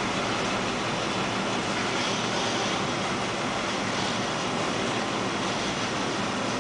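Big-block Chevrolet 632 V8 running steadily on an engine dyno, holding an even speed with no revving.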